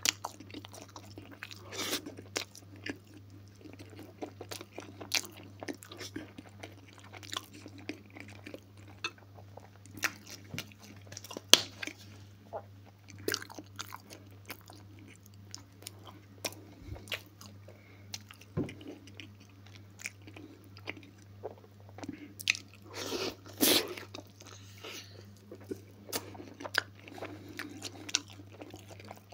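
Close-miked chewing and eating sounds: irregular wet smacks and clicks of a mouth chewing fried potatoes and shashlik, with a louder cluster of mouth noises near the end.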